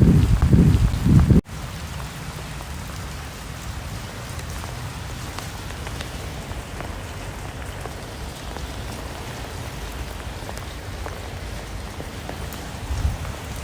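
Steady rain falling, an even hiss of drops with scattered small ticks. For about the first second and a half a louder, gusty low rumble sits over it and cuts off abruptly.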